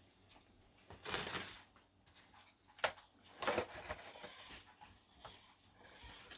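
Mealtime handling noises: two short rustles about a second in and about three and a half seconds in, with a sharp click between them.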